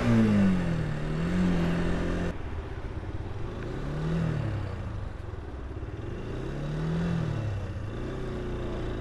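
Kymco Quannon motorcycle engine slowing down, then running at low speed with two brief rises and falls in pitch, about four and seven seconds in. The rush of wind noise drops away a couple of seconds in as the bike slows to a crawl.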